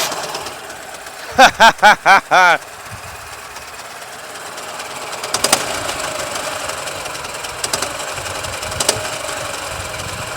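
Ural motorcycle's boxer-twin engine running with a knock that the owner doesn't like, a sign that something is wrong inside the engine. A few sharp knocks stand out over the running. About a second and a half in come five loud short pitched bleats in quick succession, the loudest sound here.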